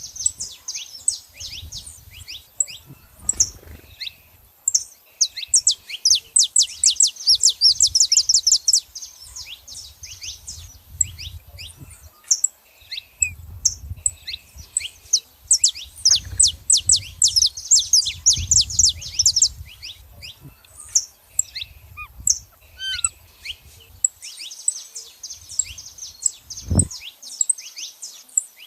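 Saffron finches chirping and singing in rapid, high-pitched runs of notes, rising into two long dense trills and a third run near the end. A single low thump near the end.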